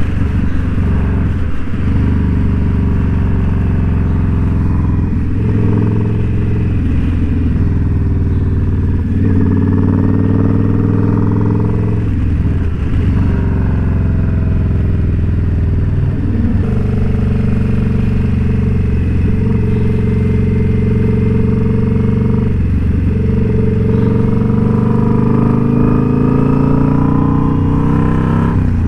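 Indian Scout Bobber's V-twin engine pulling the motorcycle under way. Its pitch dips and climbs several times in the first half as the revs change, then rises steadily near the end.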